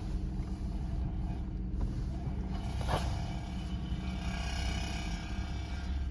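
Car engine idling, a steady low rumble, with a short knock about three seconds in.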